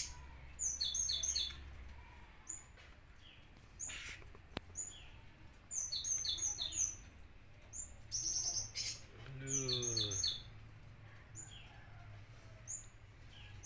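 Cinereous tit (glatik batu) calling: repeated groups of three or four short, sharp high notes, every second or two, with single notes between.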